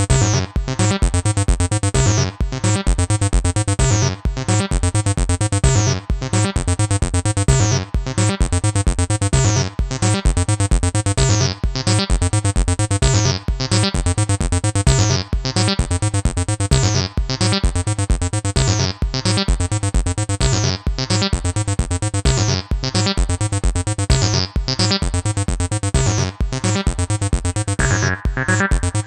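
Acid electronic music played on the acidmachine groovebox: a repeating synth bass pattern over a steady regular pulse, with a new higher synth layer coming in near the end.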